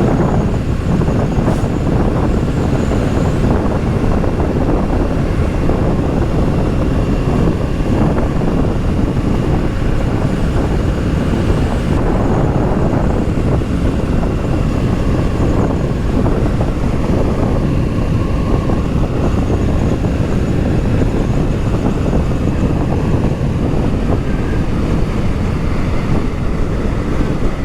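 Steady wind rush on the microphone of a rider under way on a Kawasaki Z650 motorcycle, mixed with the bike's parallel-twin engine running beneath it.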